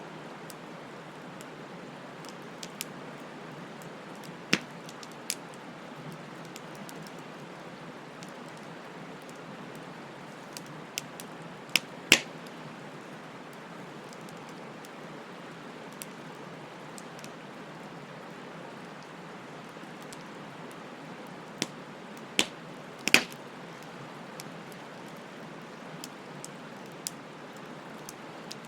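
Wood bonfire burning: a steady hiss with scattered sharp crackles and pops. The loudest pops come about twelve and twenty-three seconds in.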